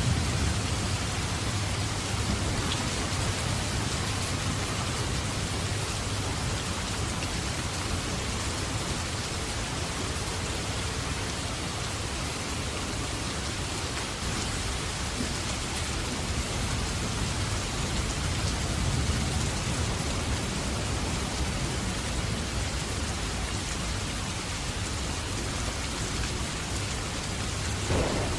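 Steady rain falling, with a low rumble underneath that swells now and then.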